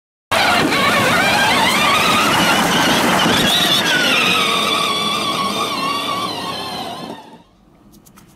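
Engine-like vehicle sound revving: a whine that climbs in pitch over about three seconds, then falls back and fades out near the end.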